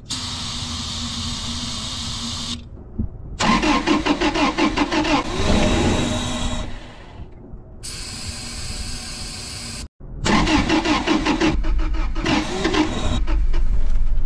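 2000 Toyota 4Runner's four-cylinder engine cranking over on the starter in repeated attempts, a rhythmic churning, with steady hissing stretches in between. It is a crank-no-start test after spraying into the throttle body, pointing to a failed fuel pump.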